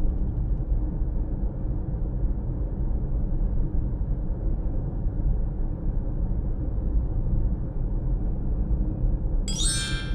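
Steady low, muffled rumble like a vehicle heard from inside the car. Near the end comes a short electronic chirp that rises in pitch.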